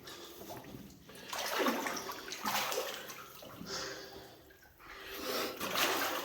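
Water in a flooded mine adit being splashed and sloshed by a person, in two long surges with a quieter spell between them.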